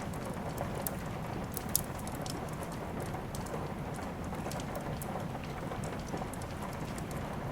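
Steady rain mixed with the scattered sharp crackles and pops of a wood fire burning in a fireplace, one louder pop about two seconds in.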